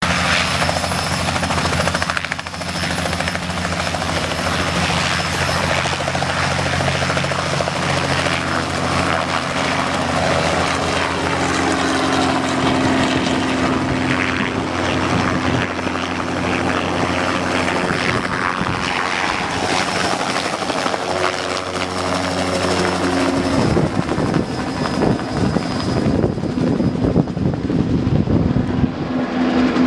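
Helicopter running, a steady rotor throb and engine drone over loud rushing noise. About 24 seconds in, the steady pitched drone drops away and a rougher rushing noise carries on.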